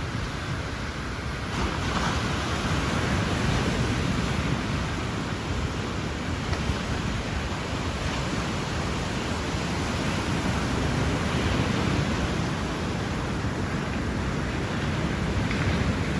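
Ocean surf: waves breaking and washing up on the beach, a steady rush that swells and eases.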